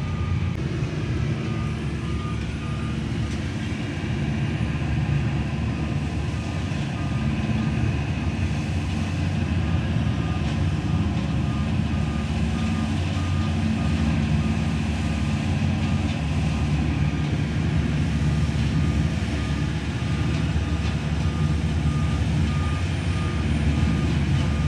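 Leaf-collection truck backing up with its trailer: the engine runs steadily under a reverse alarm beeping at an even pace.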